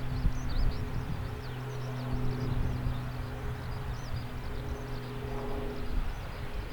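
AH-64D Apache helicopter running on the ground, a steady low hum over a rumble, the hum fading out near the end. Birds chirp over it.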